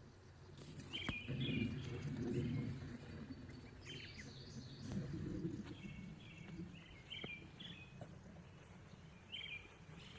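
Small birds chirping in short, repeated calls throughout. Underneath is a low rumble that is strongest in the first few seconds and again around the middle, with a few faint clicks.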